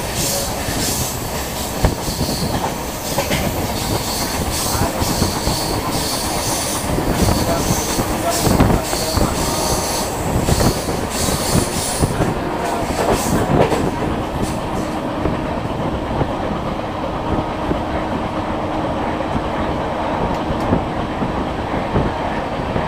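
A moving train heard from on board: wheels running on the track in a steady rumble, with scattered knocks over the rails. A high fluttering hiss runs through the first half and falls away a little over halfway through.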